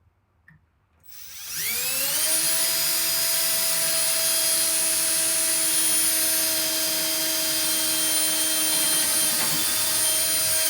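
Electric drill spinning up about a second in and running at a steady speed, drilling a pilot hole for a hinge screw, then cutting off sharply at the end.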